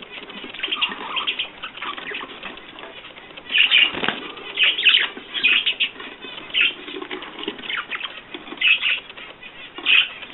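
Pet birds fluttering: wings flapping in irregular short bursts.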